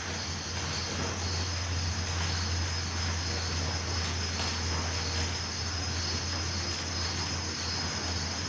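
Crickets chirring in several steady high trills, one of them pulsing, over a steady low hum and a hiss.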